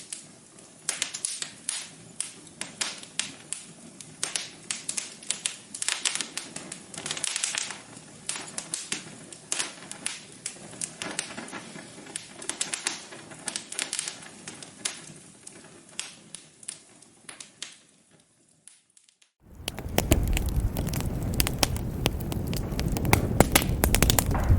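Wood fire crackling, with irregular sharp pops and snaps over a soft hiss. It fades out about 18 s in. After a second or so of near silence, a louder crackling fire with a deeper rumble cuts in suddenly.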